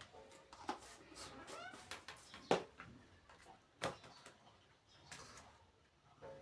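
Kitchen utensils knocking against a mixing bowl, with two sharp knocks about two and a half and four seconds in, among quieter clicks and handling sounds.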